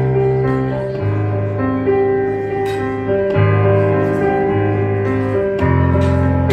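Acoustic piano playing slow, sustained chords, with the bass note changing every two seconds or so.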